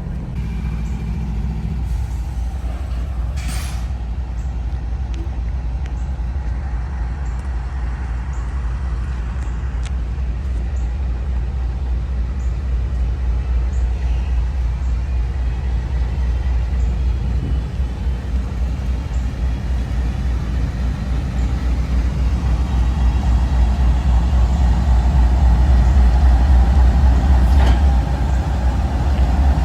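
Heavy engine rumbling steadily at a low pitch, growing louder over the last several seconds.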